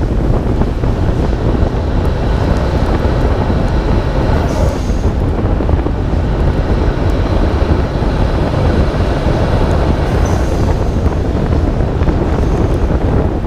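Wind buffeting a hood-mounted microphone on the moving 1991 Nissan Skyline R32 GT-R on a wet road: a loud, steady low rumble. Two short high hisses cut through, about four and a half and ten seconds in.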